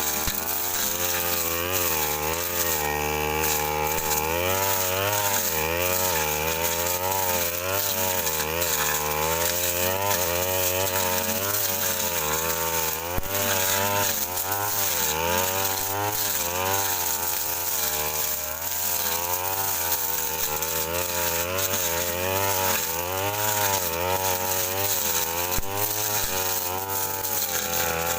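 Brush cutter with a Stamvik blade running hard while clearing dense brush. The engine's pitch dips and recovers every second or two as the blade bites into the growth and frees again.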